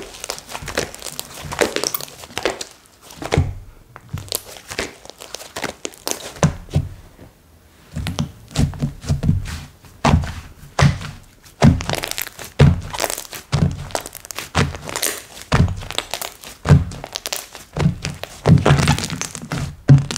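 Slime being squished, poked and pressed by hand, giving dense irregular sticky clicks and pops. From about halfway through, soft low thuds come in as it is pressed and folded.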